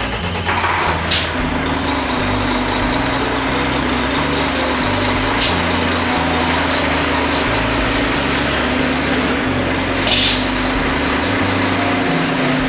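Heavy diesel semi truck engine running steadily with a constant hum, over background music with a stepping bass line.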